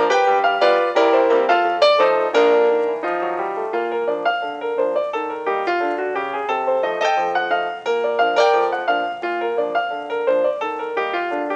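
Solo piano music, a flowing run of notes played continuously.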